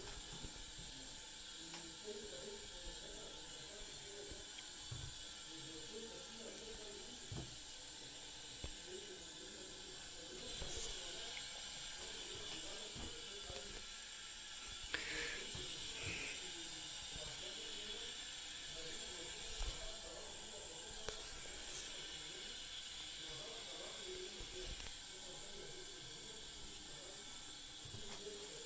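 2007 Kohler Wellworth toilet tank refilling: the fill valve hisses steadily as water trickles and bubbles into the tank. It fills slowly, taking two or three minutes to refill.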